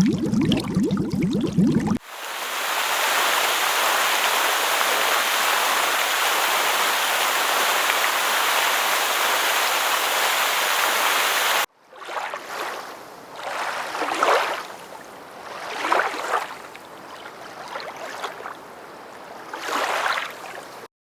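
Stock sound effects played in sequence. A low bubbling lasts about two seconds, then a steady rushing of running water, like a stream, goes on for about ten seconds and cuts off suddenly. It is followed by about four slow rising-and-falling swells of noise.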